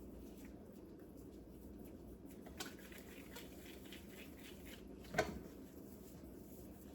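Faint handling sounds of hands shaping ground-beef meatballs over a steady low hum, with a small click about two and a half seconds in and one sharp knock about five seconds in.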